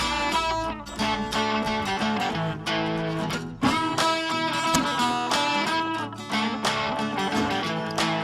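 Guitar music playing on a radio, plucked and strummed guitar notes in a steady rhythm.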